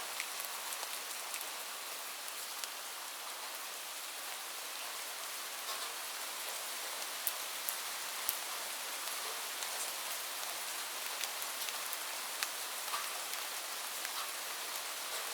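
Steady rain falling, an even hiss with scattered sharper drops ticking on a surface now and then.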